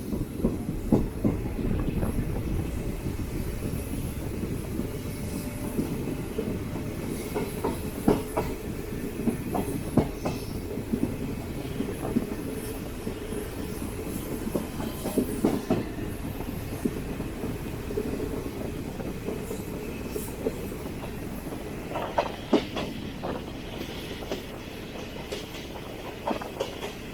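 DEMU diesel multiple-unit train running along the track: a steady low rumble with irregular clicks and clacks of the wheels over rail joints. A brief wheel squeal or screech comes in near the end.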